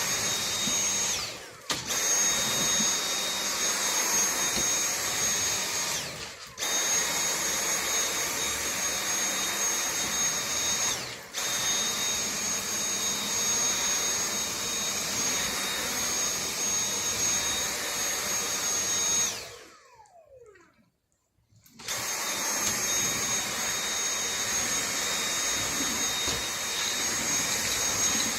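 Dyson vacuum cleaner running with a steady high-pitched whine over the suction noise. It cuts out briefly three times, then stops for about two seconds with its motor winding down in pitch before starting again.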